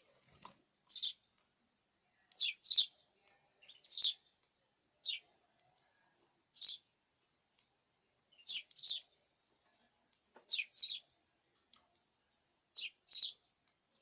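Canaries giving short high chirps, singly or in quick pairs, about every one to two seconds.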